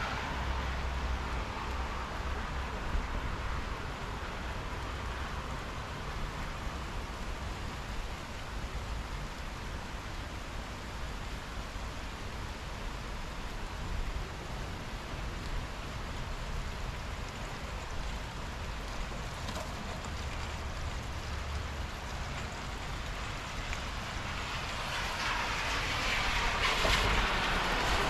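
Steady rain during a thunderstorm, with a low wind rumble on the microphone; it grows louder over the last few seconds.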